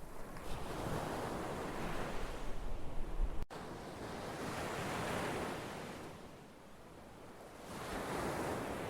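Ocean surf, waves washing in and drawing back in three swelling surges. A deep wind rumble on the microphone cuts off suddenly at a break a few seconds in.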